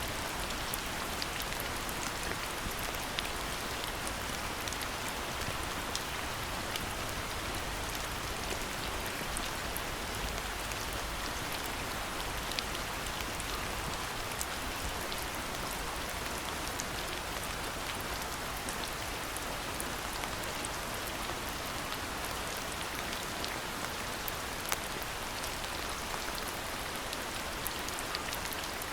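Steady rain: an even hiss with many small raindrop ticks scattered through it.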